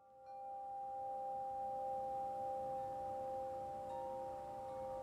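Bell-like ringing tones held steadily, two pitches sounding together, with a third, higher tone joining about four seconds in.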